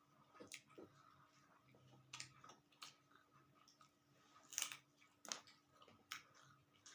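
Faint chewing and wet mouth sounds of a person eating dal, rice, omelette and roti, with about half a dozen small sharp clicks, the loudest a little past halfway.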